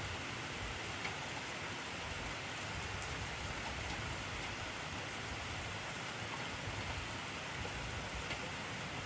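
Steady heavy rainfall: an even hiss of rain with a few faint drop ticks.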